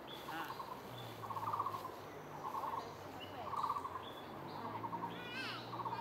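Forest birds calling: short rapid trills repeating about once a second, with a higher descending twitter of notes about five seconds in, over a faint low steady hum.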